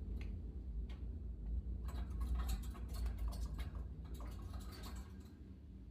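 Budgie eating: its beak pecking and cracking seeds in quick runs of small sharp clicks, sparse at first and then in two busy spells.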